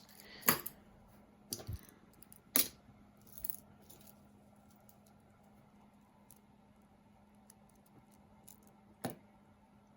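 Costume jewelry clicking and clinking as pieces are picked up and set down: a few sharp clicks in the first four seconds and one more near the end, over a faint steady hum.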